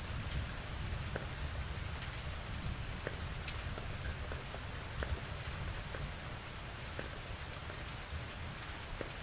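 Steady rain falling, with many individual drops ticking sharply on a surface over an even hiss and a deep, steady undertone.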